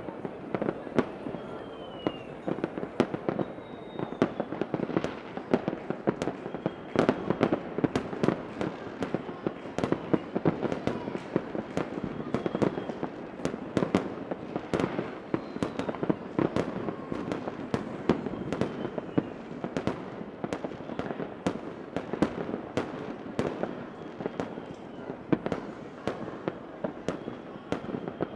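Fireworks going off without a break: a dense run of sharp bangs and crackles over a steady rumble, with a faint short falling whistle now and then.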